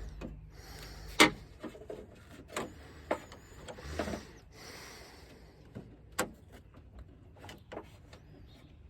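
Scattered sharp clicks and knocks of hand tools and metal latch parts worked inside a GMC truck door while prying a metal retaining clip loose. The loudest is a sharp click about a second in, and there is a duller knock about four seconds in.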